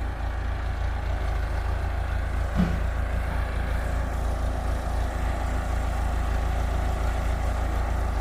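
Backhoe engine running steadily with a deep, even rumble, with a brief short sound about two and a half seconds in.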